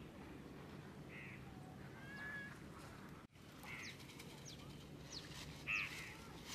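Several short bird calls, the loudest near the end, over a faint steady low background.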